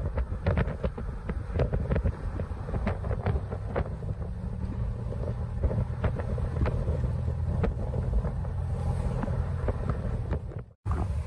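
Snowstorm wind buffeting the microphone as a steady low rumble, with many irregular sharp ticks over it. The sound drops out for an instant near the end.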